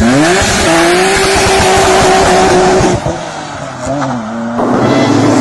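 Nissan Skyline RB26 twin-turbo straight-six engine revving up hard and holding high revs amid a loud hiss for about three seconds, then dropping off, blipping again about four seconds in, and settling to a lower steady note.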